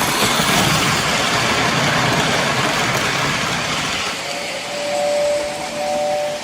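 O gauge model steam train with freight cars rolling on three-rail track, a steady rumbling rattle of wheels and motor. From about four seconds in, a steady two-note tone sounds in short stretches.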